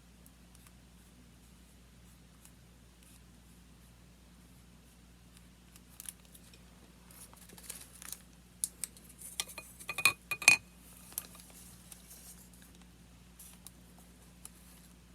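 Handling of paper and watercolour supplies: light rustles and small taps start after about six seconds of near silence, with two sharp ringing clinks about ten seconds in, then it quiets again.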